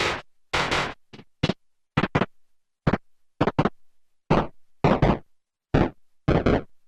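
Erica Synths Perkons HD-01 drum synthesizer playing a sparse, uneven pattern of short, noisy drum hits, some with a deep low end. Each hit cuts off abruptly, with silence between.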